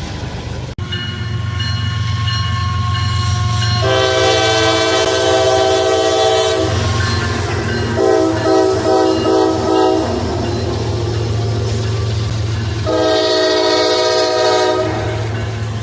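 Locomotive air horn sounding a chord in three blasts, long, then a shorter wavering one, then long again, over the steady rumble of the passing train.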